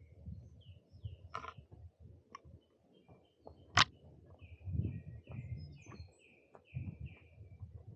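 Woodland birds chirping, with a run of short repeated down-slurred notes in the second half. There are soft low thuds of footsteps walking on a forest path throughout. A single sharp click about four seconds in is the loudest sound.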